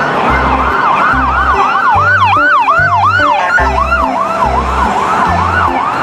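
Ambulance siren sounding in quick up-and-down sweeps, about three a second. A second, higher siren joins briefly in the middle.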